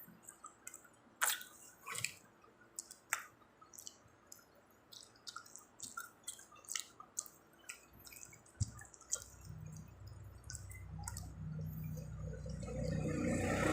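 Close-miked chewing of food, with wet mouth clicks and smacks scattered irregularly. In the last few seconds a low, steady hum rises and grows louder.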